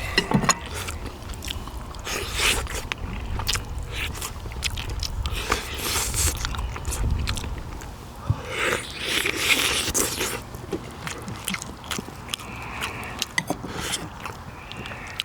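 A person eating pork bone soup close to the microphone: chewing and biting meat off pork bones, with many short sharp clicks and scrapes between bursts of chewing noise.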